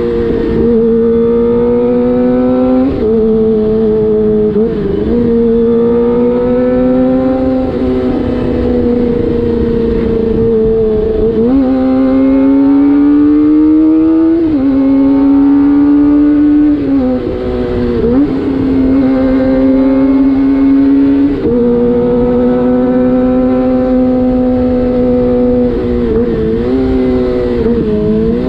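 Kawasaki Ninja ZX-25R's 249 cc inline-four running through a DX Generation Prorace aftermarket exhaust with the dB killer out, heard from on the bike while riding. The engine note holds steady between quick changes in pitch as the rider shifts gears and works the throttle, over a wind rush.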